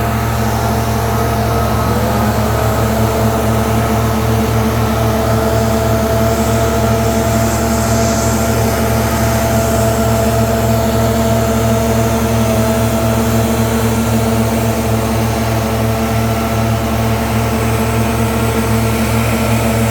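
Leaf blower running loud and steady at a constant pitch.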